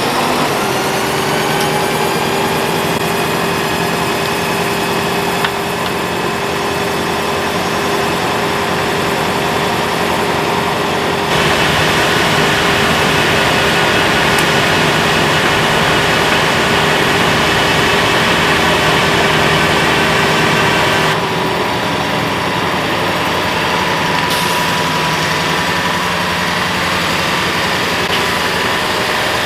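School bus engine running at a steady held speed after its pitch rises into place at the start. For a stretch in the middle it gets louder and harsher, starting and stopping abruptly.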